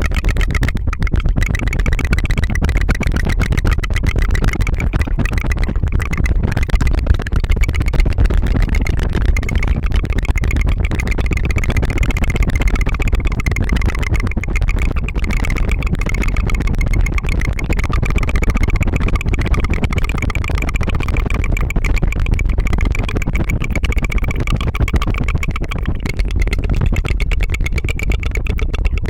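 ASMR tongue flutter: a rolled-tongue trill into a binaural microphone, a fast even stream of buzzing pulses that goes on without a break.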